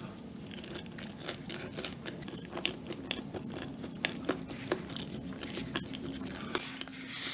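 Close-miked chewing of a half-frozen cup cream cake, with many small sharp crunches and mouth clicks as its chocolate coffee-bean topping breaks, over a low steady hum.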